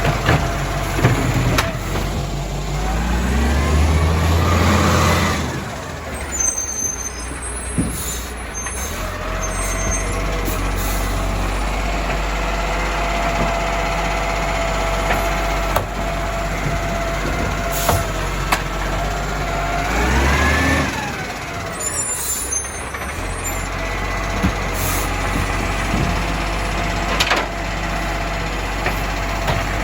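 Garbage truck's diesel engine running, its revs rising and falling back twice with a steady whine in between, plus a few sharp clicks and knocks.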